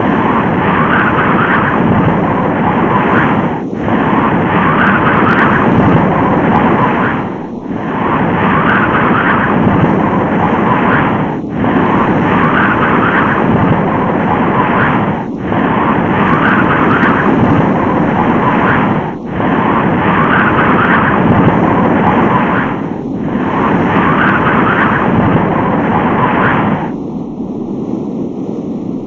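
Loud storm-wind sound effect, a steady roar that dips briefly about every four seconds. Near the end it gives way to a softer, duller wind.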